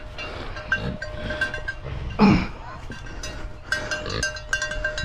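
A farm animal gives one short call about two seconds in, among repeated light clinks and clicks.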